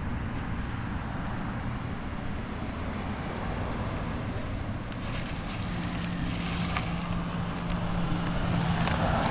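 A car engine running close by, a steady low hum with outdoor road noise. A steady tone comes in about halfway through, and the engine grows louder over the last few seconds.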